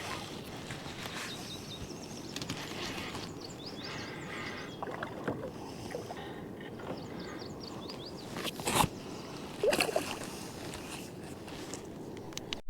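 Water sloshing and splashing around a kayak as a hooked northern pike is fought and landed, with a couple of sharp knocks about two-thirds of the way in.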